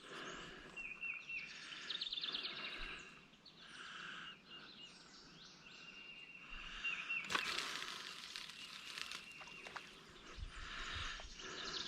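Outdoor birdsong: several birds chirping and calling, with quick trills and a held high note. A louder rush of noise comes in about seven seconds in and lasts a second or two.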